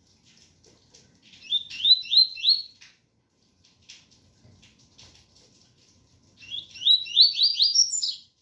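Double-collared seedeater (coleiro) singing its 'tui-tui' song: two phrases of quick, rising whistled notes, one starting about a second in and a louder one near the end.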